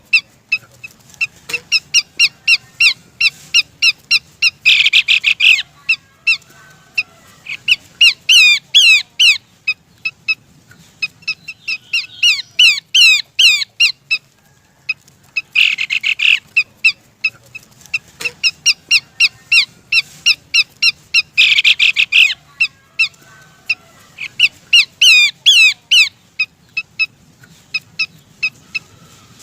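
Lure recording of a Horsfield's babbler (pelanduk semak), billed as a female calling a male. It has harsh rasping bursts, runs of sharp rapid chips, and quick whistled notes sliding in pitch. The sequence repeats about every 11 seconds, as a loop.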